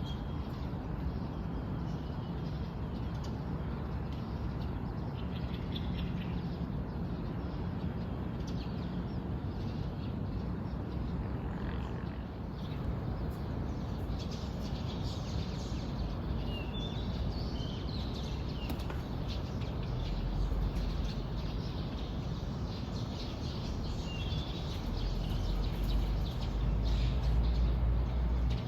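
Birds chirping at dawn: short, scattered chirps over a steady low outdoor rumble that swells near the end.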